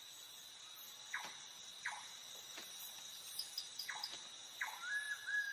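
Night-time tropical forest insects keep up a steady high-pitched trilling. About five short falling chirps come through it roughly a second apart. Near the end a wavering whistle-like tone begins.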